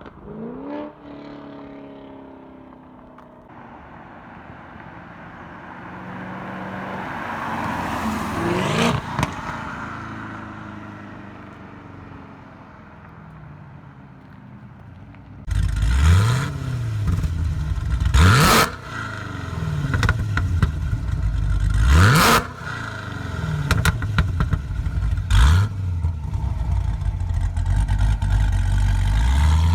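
Supercharged 6.2 L LSA V8 of a Chevrolet SS, breathing through long-tube headers, an X-pipe with the resonators deleted and the stock bimodal mufflers, under acceleration. At first it is moderate, with the engine note climbing. About halfway it turns suddenly much louder, and the revs climb and drop sharply several times, with a crack at each drop, as in hard pulls and revs.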